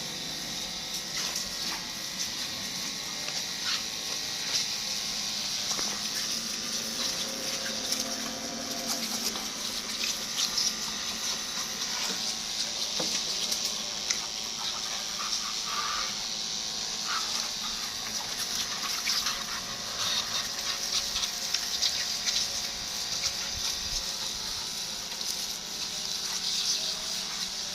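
Steady rush of water spraying while a motor scooter is washed, with a few small knocks and clicks.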